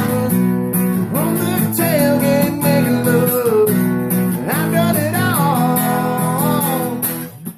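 Acoustic guitar strummed steadily in a country song's instrumental break between verse and chorus, with a melody line gliding over the chords. The playing cuts off briefly near the end.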